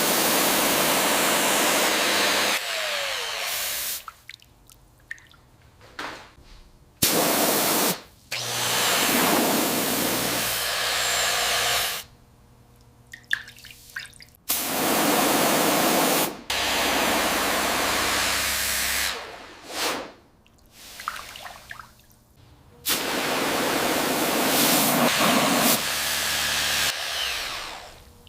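High-pressure spray hissing in repeated bursts of a few seconds each, switched on and off sharply, used in rust and grime cleaning, with small clicks and drips in the gaps between bursts.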